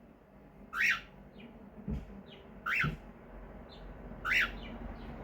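Cockatiel screeching: three loud, short calls about two seconds apart, each rising and then falling in pitch, with fainter chirps between them.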